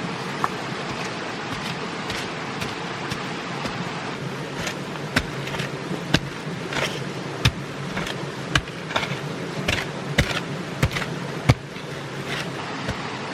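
Irregular sharp knocks and taps, about a dozen over several seconds starting around a third of the way in, over a steady hiss of background noise.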